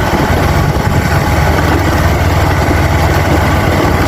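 Motorcycle engine running steadily while riding, with a dense rush of wind and road noise over it.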